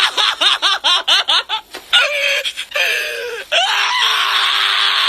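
A voice laughing in a rapid run of short rising syllables, then a few longer calls, then a long held, strained scream-like cry starting about three and a half seconds in.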